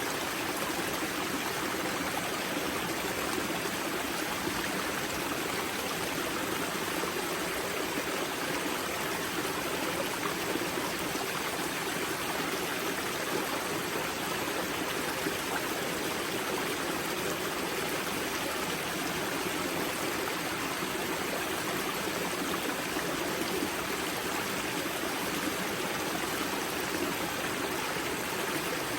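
Spring water of a river's source flowing and burbling over rocks, a steady rushing stream sound with no pauses.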